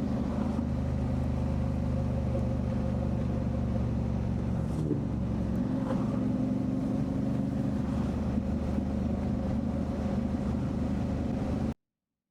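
Motorcycle engine running steadily at cruising speed, with road and wind noise. The sound cuts off abruptly about a second before the end.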